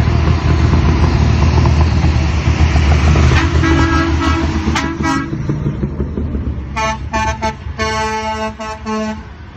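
Loud low rumble of heavy road traffic, then a vehicle horn: one held blast about three and a half seconds in, and a run of short, rapid toots near the end.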